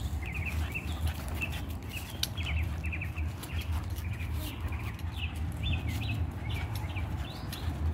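Small birds chirping in the background, a quick run of short repeated chirps, over a steady low rumble with scattered faint clicks.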